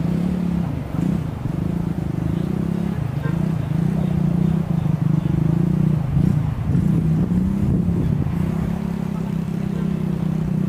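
Diesel-electric locomotive engine running with a steady low hum that wavers slightly in pitch and dips briefly twice.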